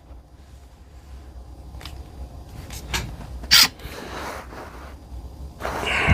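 Metal air-rifle parts being handled while a barrel is worked into the receiver: a few scattered sharp clicks and knocks, the loudest about three and a half seconds in, then a longer rushing noise near the end.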